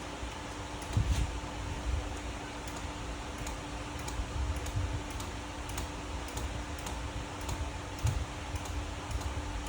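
Hand fluid pump being worked to push transmission fluid into a manual transmission: scattered clicks and soft low thumps from the pump strokes, at an uneven pace, over a steady hum.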